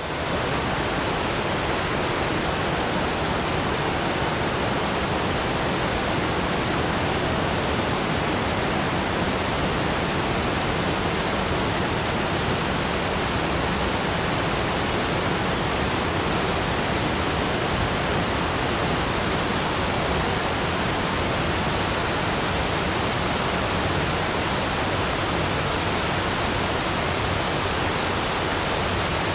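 Cascading waterfalls: a steady, unbroken rush of falling water.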